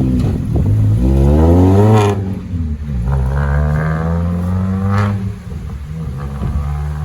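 A car engine revving hard. Its pitch climbs to a peak about two seconds in and breaks off sharply, then climbs again more slowly and drops off about five seconds in, like a car pulling through the gears.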